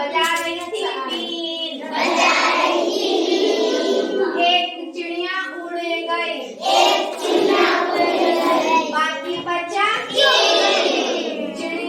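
A group of children singing a Hindi counting rhyme about little birds in unison, phrase after phrase with short breaks between lines.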